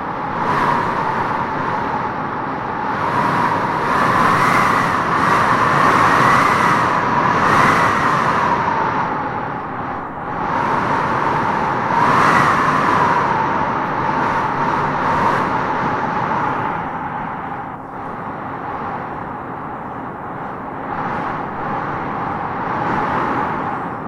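Howling wind gusting through trees: a steady rush with a whistling howl that swells and fades, strongest about four to eight seconds in and again around twelve seconds.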